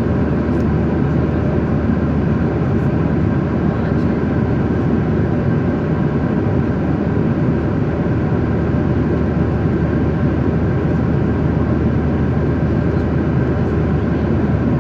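Steady cabin noise of an airliner in cruise flight: an even, unbroken rush of airflow and engines heard inside the passenger cabin, deepest in the low range.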